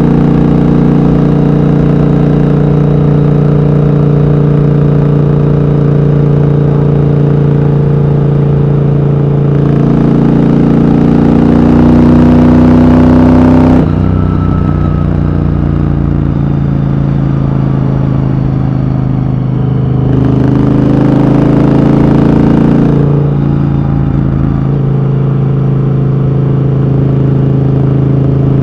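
Triumph Thunderbird Storm's big parallel-twin engine running at a steady cruising speed. It swells louder twice, about a third and two thirds of the way through, as the throttle is opened, then drops back suddenly as it is closed.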